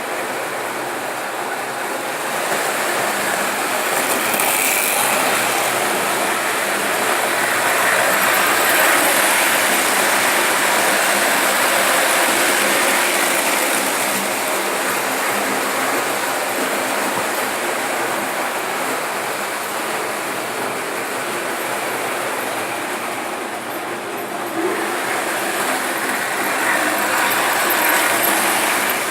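Märklin model trains running on the layout: a steady whirring and rattling of small motors and wheels on the track, swelling louder twice as trains pass close.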